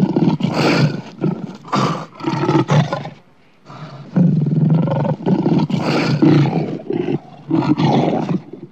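Lion roaring in two long bouts, with a short pause about three seconds in.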